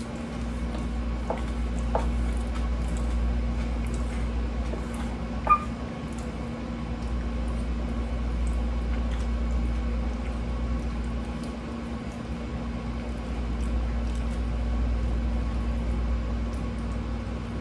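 Close-up eating sounds of someone chewing meatloaf, with soft mouth noises and faint clicks of a wooden fork against a plate, over a steady low hum. One brief clink about five seconds in.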